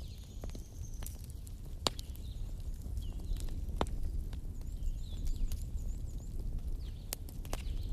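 Wood fire crackling in a fireplace, with scattered sharp pops and snaps, a few of them loud, over a steady low rumble. Faint short high chirps sound through it.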